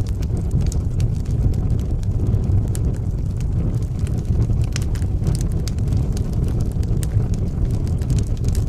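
Wood fire burning in a fireplace: a steady low rumble of flames with frequent irregular crackles and pops of the burning wood.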